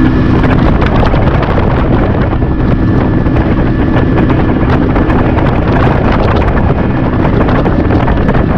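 Boat running at speed on the river, its outboard motor's drone buried under heavy wind buffeting on the microphone.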